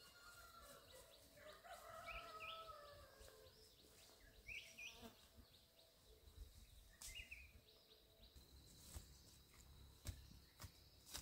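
Near silence with faint bird chirps, short rising calls a few times, and a few light knocks near the end.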